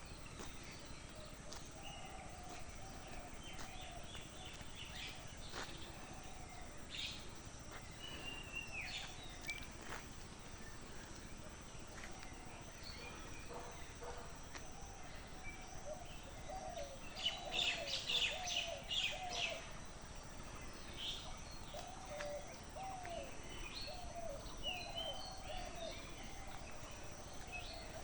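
Several birds calling in open countryside: a short, lower call note repeated again and again over a faint outdoor background, with higher chirps scattered through. A busier run of chirping comes a little past the middle.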